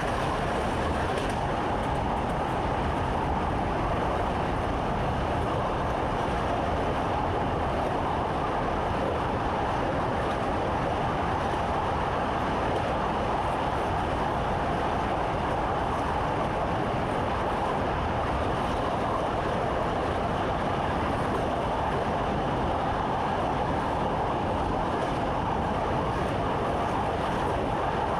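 Electric commuter train running steadily along the line, heard from inside the driver's cab: a continuous, unchanging running noise with a steady hum.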